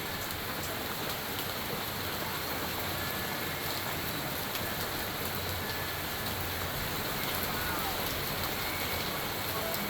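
Thunderstorm rain falling steadily, with scattered sharp ticks of hailstones striking surfaces.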